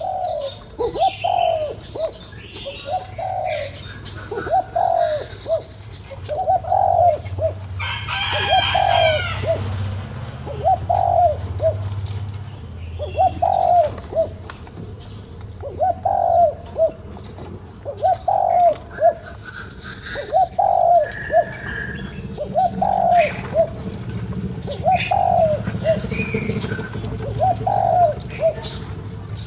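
Spotted dove cooing over and over, short low coos about every one and a half seconds. Higher chirps from other small birds are scattered between the coos, over a steady low hum.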